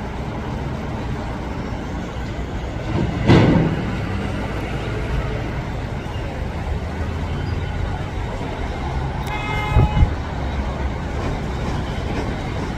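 Steady outdoor traffic noise, with a loud passing rush about three seconds in and a short vehicle horn toot near ten seconds.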